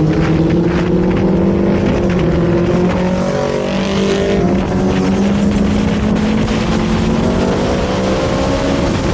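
Superbike engine running at high revs on the move, its pitch climbing slowly and steadily.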